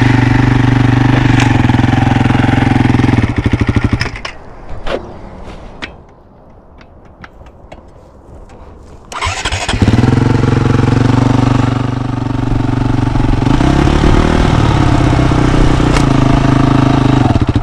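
Small single-cylinder mini bike engine running close by at a steady pitch. It dies away about four seconds in, leaving a few seconds of quiet with light clicks, then comes back loud about nine seconds in, its pitch shifting a little near the middle of that stretch.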